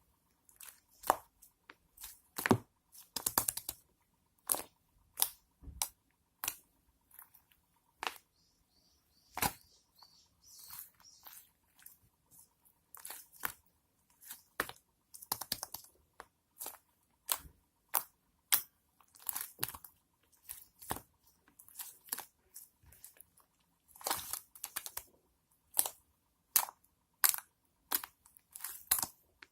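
Sticky slime being squeezed and stretched by hand, giving irregular sharp clicks and crackling pops, sometimes in quick clusters.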